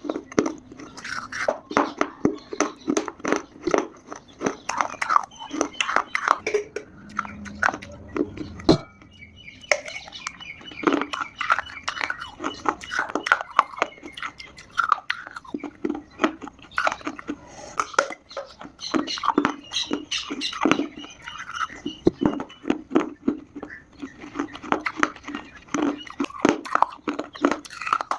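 Close-miked chewing and crunching of dry Multani mitti (fuller's earth clay). The crunches and crackles come fast and irregular, with a brief lull about nine seconds in.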